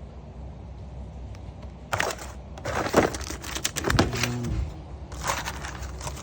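Objects being handled and moved while rummaging through a storage unit: after a low steady background hum, a run of knocks, clatter and rustling starts about two seconds in, with a short squeak about four seconds in.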